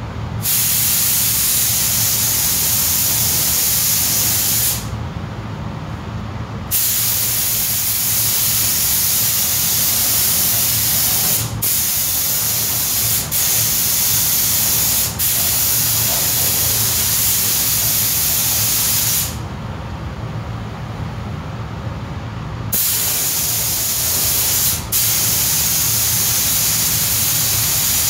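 Air spray gun spraying primer in long, steady hissing passes, with the trigger released for a couple of seconds twice and for split seconds a few times. A steady low hum runs underneath.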